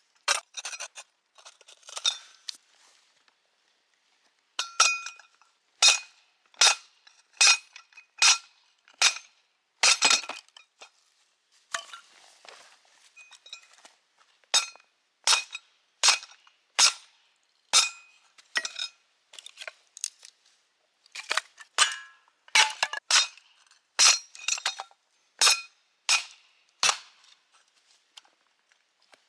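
Hammer blows on a steel firewood splitter, each strike sharp with a clear metallic ring, in steady runs of about one a second broken by short pauses.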